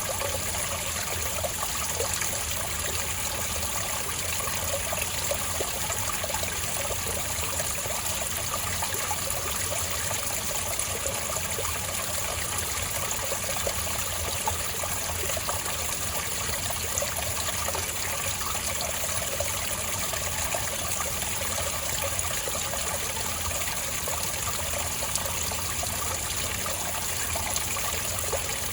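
Spring water trickling and burbling steadily over stones.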